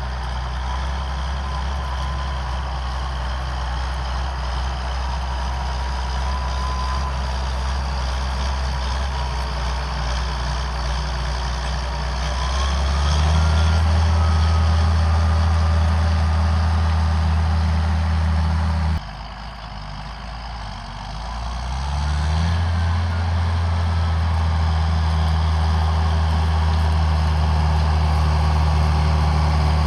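John Deere 7800 tractor's six-cylinder turbodiesel running steadily under load with a whine above it. It rises in pitch and level about 12 seconds in, drops suddenly a few seconds later, then builds back up.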